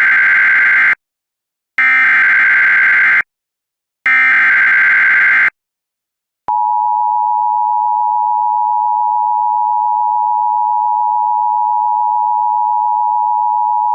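Emergency Alert System SAME header: three short bursts of screechy digital data with brief gaps between them. About a second after the last burst, the steady two-tone EAS attention signal begins and holds unbroken.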